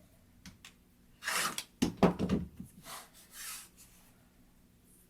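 Handling noises from quilt trimming: a plastic quilting ruler and fabric being set down and shifted on a cutting table. A short swish, then a sharp click and several knocks about two seconds in, then softer rustles.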